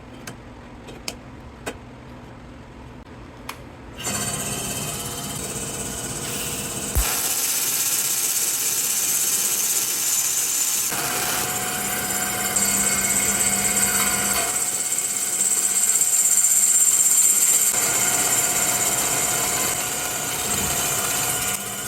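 A few light clicks, then about four seconds in a wood lathe starts running steadily. About seven seconds in there is a sharp crack, and a TIG welding arc on the spinning mild steel tube starts. The arc hisses and buzzes loudly, shifts in tone a few times, and cuts off just before the end.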